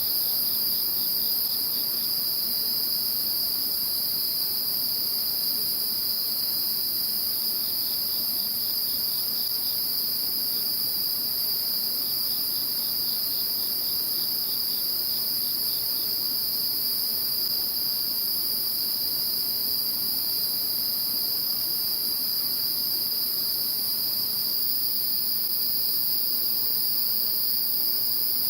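A chorus of calling insects: a steady, high, continuous trilling. A second insect joins in short stretches with rapid pulsed chirping, slightly lower in pitch.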